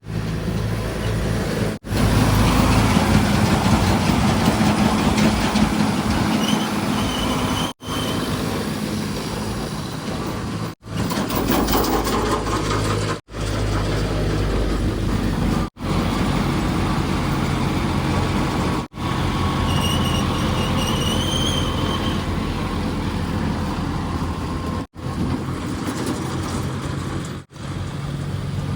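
Heavy diesel engines of earthmoving machinery and vehicles running steadily, in short stretches that drop out for a moment every few seconds. A faint high whistle rises and wavers twice.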